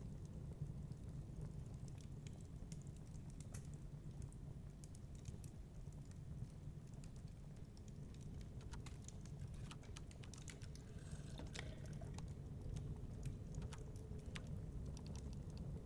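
Wood fire crackling in a fireplace, with scattered sharp pops and snaps that cluster more densely about two-thirds of the way through, over a steady low rumble.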